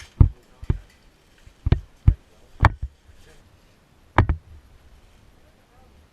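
Footsteps of a player walking, heard as about six irregular thuds; the loudest comes about four seconds in.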